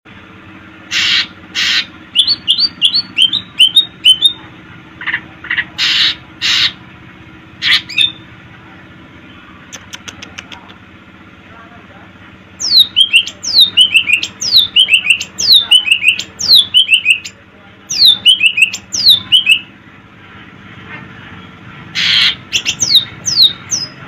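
Cucak ijo (green leafbird) singing: loud, short, harsh notes broken by runs of quick whistles that slide down in pitch, with a long run of these whistles in the middle.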